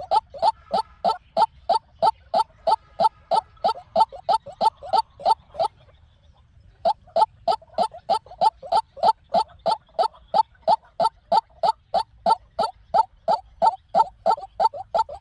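White-breasted waterhen calling: a fast, even run of short harsh repeated notes, about three to four a second. The run stops for about a second near the middle, then picks up again at the same pace.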